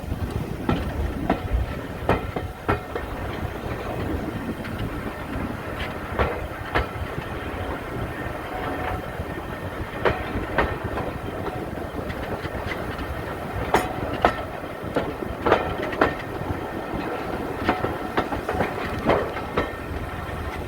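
Moving train on a preserved railway: a steady low rumble of wheels on the track, broken by pairs of sharp clicks about half a second apart as the wheels cross rail joints, a clickety-clack that comes every few seconds.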